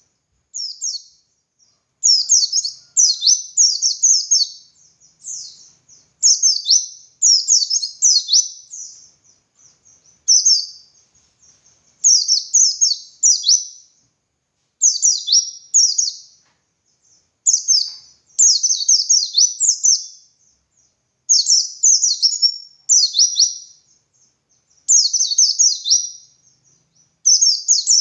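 A white-eye (pleci) singing in rapid, high-pitched bursts, each a quick run of sharply falling notes, about one burst every second or two with short pauses between. This is the loud, open-beaked, long-running song that keepers call gacor ngalas, used as a masteran to teach other pleci.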